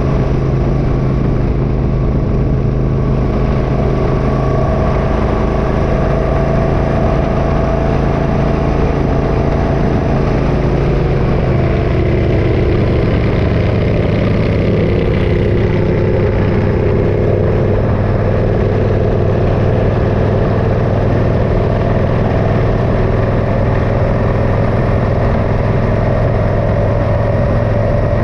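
Motorcycle engine running steadily while riding; its note changes about eleven seconds in and settles again.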